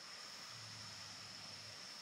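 Faint steady high-pitched insect chorus over a soft background hiss, with a brief faint low hum starting about half a second in.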